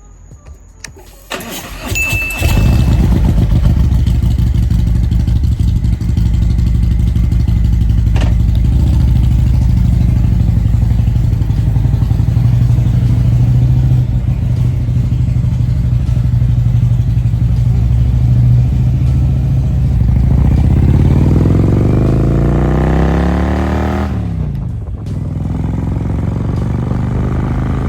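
Motorcycle engine starting about a second in, then idling steadily. Near the end the revs climb for a few seconds, drop back sharply and settle again.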